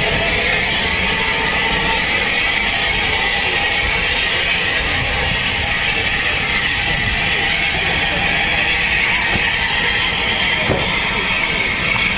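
Train running on a heritage railway line: a steady rumble with mechanical rattling.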